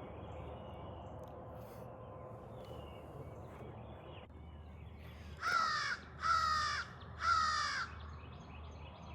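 Crow cawing three times in quick succession, each caw about half a second long.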